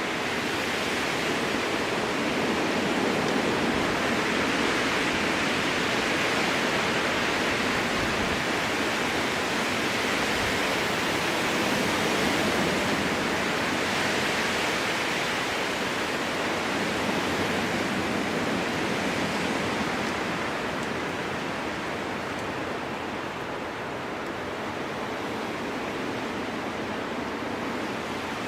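Strong wind blowing through spruce trees: a steady rushing that slowly swells and eases, dropping off a little about twenty seconds in.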